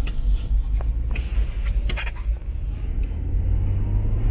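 Car driving, heard from inside the cabin: a steady low rumble of engine and road noise, with a few light clicks and the engine hum rising a little near the end.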